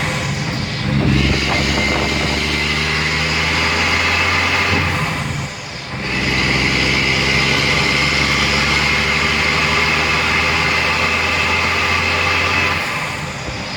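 2004 Mack Granite dump truck's diesel engine running steadily while driving. It drops off briefly about five and a half seconds in and again near the end, picking up again each time.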